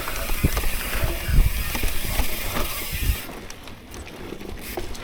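Mountain bike riding over a dirt trail: a rushing hiss with low knocks and rattles from bumps, easing off about three seconds in.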